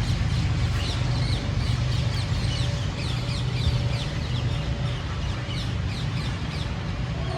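Birds chirping over and over in short falling notes, over a steady low hum.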